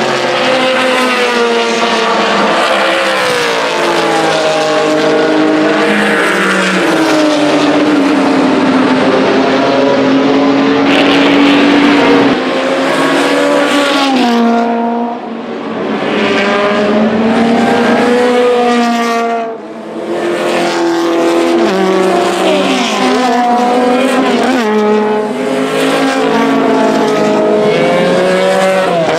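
Vintage race car engines at racing speed, revving up and shifting again and again as cars pass one after another. The sound drops away briefly twice, about halfway through and a few seconds later.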